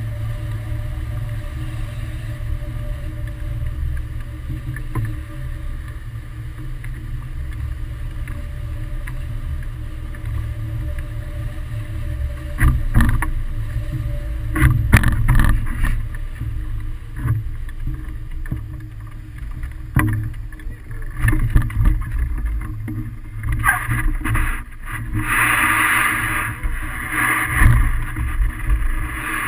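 Rushing air buffeting the microphone of a hang glider in flight: a steady low rumble that swells in louder gusts, with crackling spikes from about twelve seconds in and a brighter hiss near the end.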